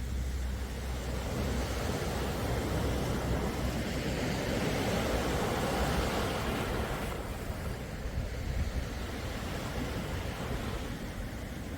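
Sea waves on a calm shore: one wash of surf swells up to a peak about halfway through and drops away fairly suddenly, leaving a lower steady hiss of water.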